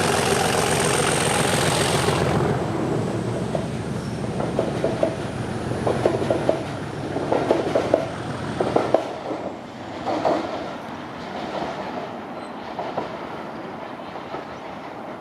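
A Class 37 diesel locomotive's English Electric 12CSVT engine under power, loud for the first couple of seconds and then dropping away as it passes. It is followed by the train's wheels clicking over the rail joints with short squeals, fading as the train moves off.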